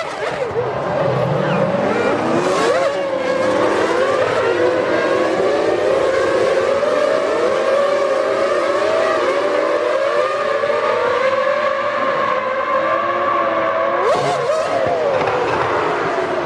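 Several Formula One V10 engines running together, their pitches sweeping up and down as they are revved. The pitches settle into a steadier note in the middle, then sweep up again near the end.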